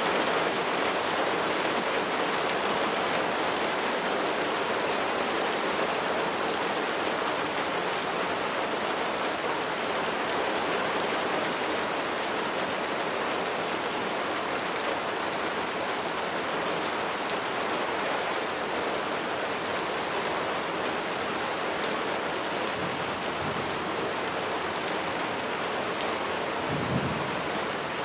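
Steady rain falling, an even hiss with fine drop ticks. Near the end a brief low rumble of thunder swells and fades.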